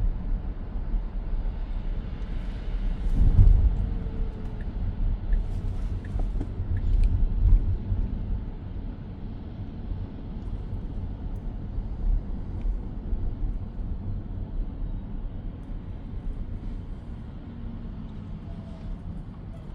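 Road and tyre noise inside the cabin of a moving 2023 Tesla Model X, an electric car with no engine sound: a steady low rumble that swells louder about 3 seconds in and again about 7 seconds in, then eases off.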